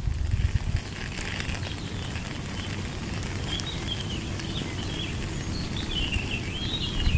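Steady rain falling on open water over a constant low rumble. From about halfway through, a bird twitters in a high, wavering chatter that grows stronger near the end.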